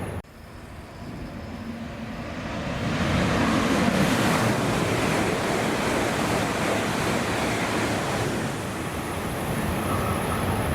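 Shinkansen bullet train passing through the station at high speed: a broad rushing roar that swells over about four seconds and then holds steady.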